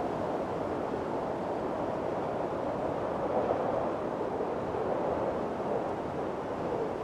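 Strong wind blowing steadily in a storm, a dense rushing whoosh that swells and eases slowly.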